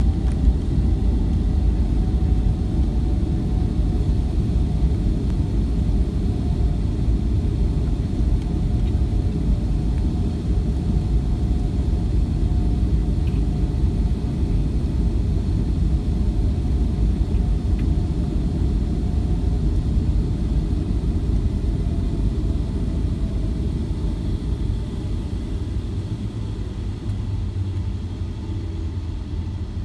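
Boeing 757-200 airliner heard from inside the cabin: a steady low rumble of engines and airframe with a faint hum above it, easing slightly near the end.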